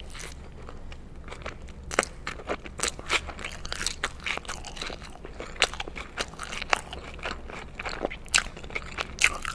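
Close-miked biting and chewing of a McDonald's burger with shredded lettuce: irregular wet crunches and crackles, the sharpest about two seconds in and near the end.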